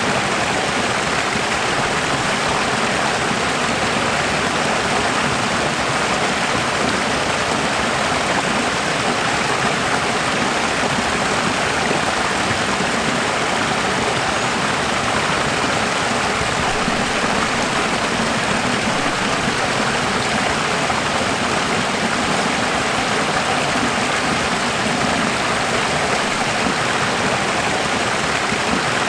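Running water: a steady, even rush of a stream or small waterfall, without change.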